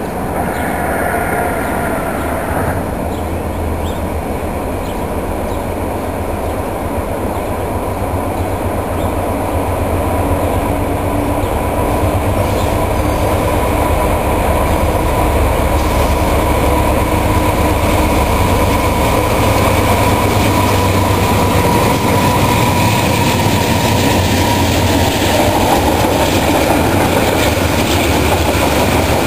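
Freight train of autorack cars rolling past close by: a steady rumble and clatter of steel wheels on the rails, growing a little louder about a third of the way through. A thin steady whine sounds through the middle stretch.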